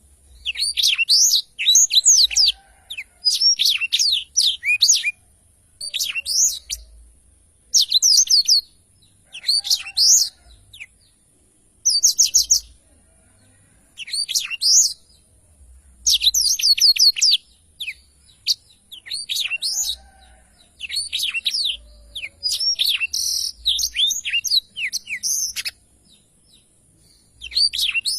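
Black-throated canary (blackthroat) singing in repeated bursts of rapid, high twittering song, each about a second long and coming every couple of seconds, over a faint steady high-pitched hiss. It is singing freely and often, the kind of song kept as a tutor recording for other songbirds.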